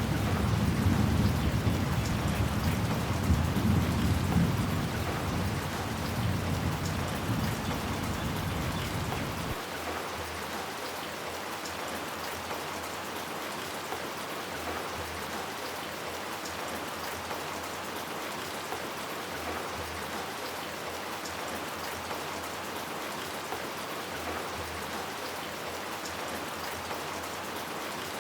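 Steady rain falling, with a long low rumble of thunder that dies away and stops about a third of the way in, leaving only the rain.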